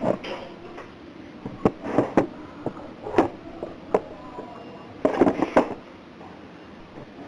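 Scattered clicks and knocks of small hard parts of a gas soldering iron being handled and worked on, with a quick run of clatter about five seconds in.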